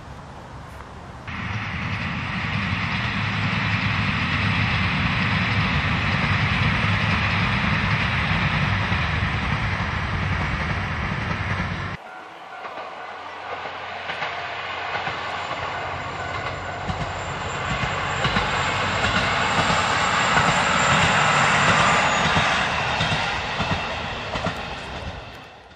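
A train running past, starting abruptly about a second in. It cuts off sharply about twelve seconds in, and a second stretch of train noise builds up and then fades out near the end.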